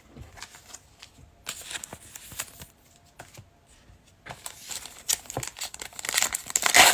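A few light handling clicks, then a trading-card pack's wrapper being torn open and crinkled from about four seconds in, loudest near the end.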